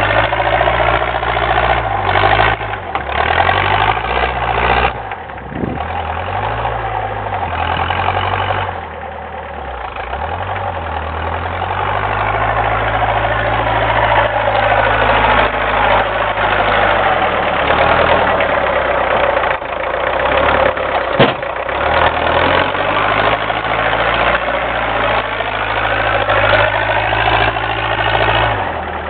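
Diesel engine of a homemade doodlebug tractor running under plowing load, its revs sagging a couple of times and building back up.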